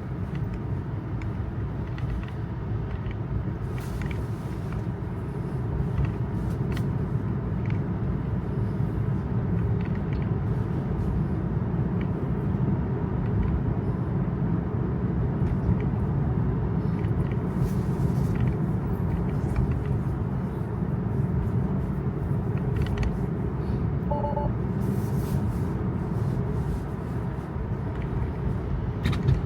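Steady tyre and road rumble inside a Tesla's cabin, driving on rain-wet roads, with a few brief hissy swells and a short two-note beep about three-quarters of the way through.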